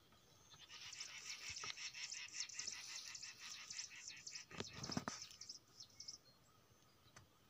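A bird calling in a fast, high-pitched chattering run of rapidly repeated notes that lasts about five seconds and then stops. A short low rumble comes about four and a half seconds in.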